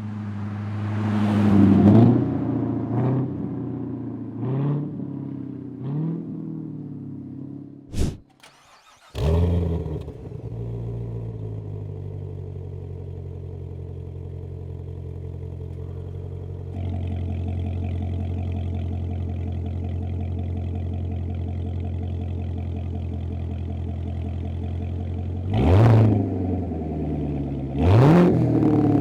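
C7 Corvette's 6.2L V8 through an MBRP axle-back exhaust: a few quick throttle blips, then after a short gap a start-up flare about nine seconds in that settles to a steady idle. The idle gets louder about seventeen seconds in, and sharp revs come near the end.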